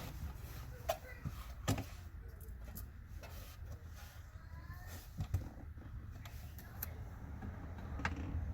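Scattered light clicks and knocks of hand work on a car's parts, a few strikes several seconds apart, over a steady low hum.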